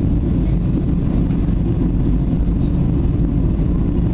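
Boeing 737 jet engines and airflow making a steady low rumble, with a faint click about a second in.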